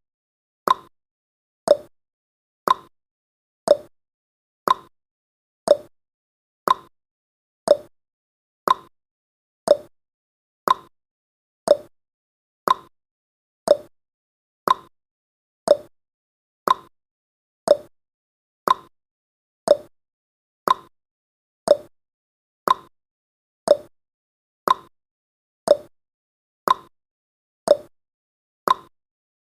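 Countdown timer's clock-tick sound effect: a short, sharp tick once every second, evenly paced, each dying away quickly before the next.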